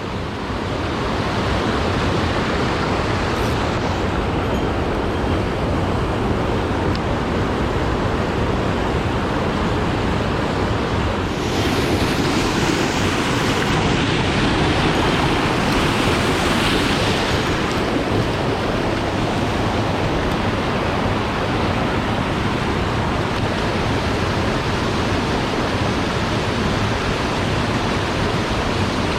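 Mountain stream water rushing steadily over rocks, a continuous loud hiss that swells slightly midway.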